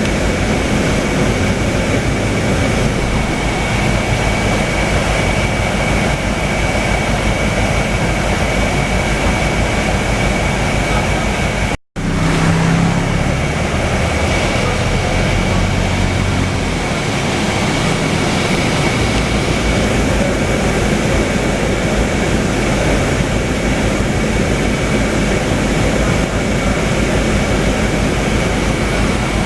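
Cabin sound of a Scania K320UA articulated city bus under way: rear diesel engine and road noise running steadily, with a thin high whine throughout. The sound cuts out for an instant about twelve seconds in. For a few seconds after that a deeper engine note stands out, then it settles back.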